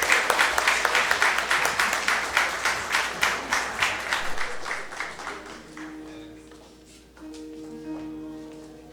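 Audience applause that fades away over the first five seconds, then an electronic keyboard starts playing soft, sustained chords as the introduction to a choir song.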